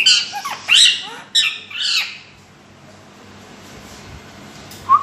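A parrot squawking: a run of loud, harsh calls in the first two seconds, then a short rising call at the very end.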